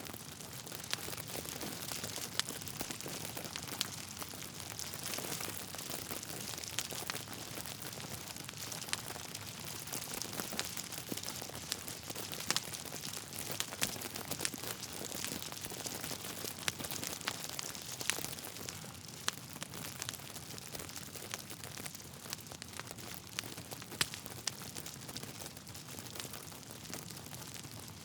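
Wood fire burning in a fireplace, crackling steadily with frequent small pops and snaps over a soft hiss.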